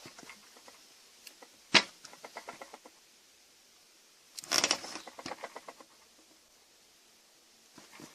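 Metal parts of a dismantled washing-machine motor clinking and rattling as they are handled: a sharp knock about two seconds in followed by a short rattle, then a louder clatter a little past the middle and a few faint ticks near the end.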